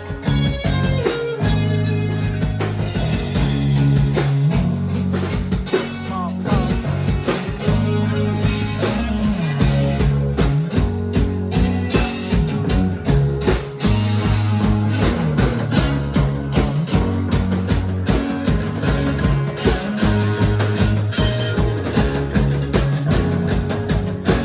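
A rock band playing, with electric guitar over a moving bass line and a steady drum beat.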